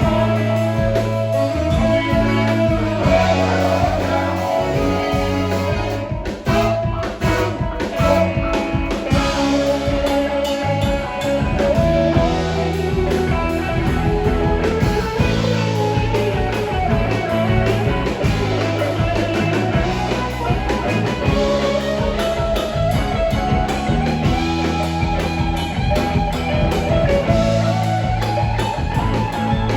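Live rock band playing a blues-rock number with electric guitar and drum kit.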